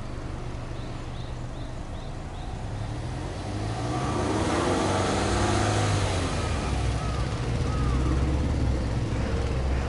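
Subaru Legacy Touring Wagon 2.0GT (BP5) with its EJ20 turbocharged flat-four, heard at the twin exhaust tips. It idles at first, then is revved freely from about three and a half seconds in, and stays louder from then on.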